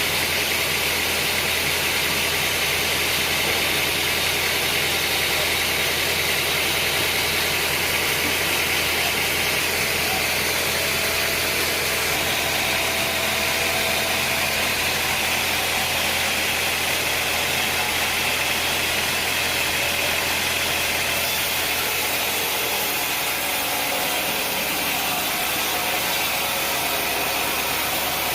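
Sawmill saw machinery running steadily: a continuous engine-like drone with a strong high hiss. It eases slightly in the low end near the end.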